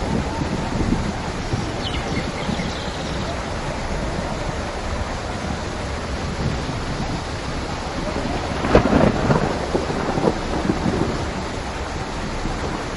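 Steady heavy rain with a thunderclap about nine seconds in: a sharp crack followed by a rumble that dies away.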